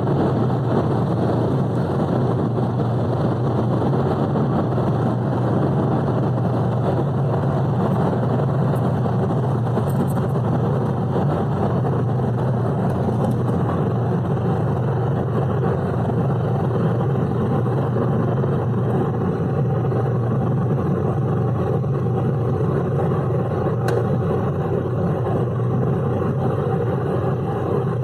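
Tata Tigor sedan driving at high speed: a steady low engine drone mixed with road and wind noise, holding constant with no gear changes or revving.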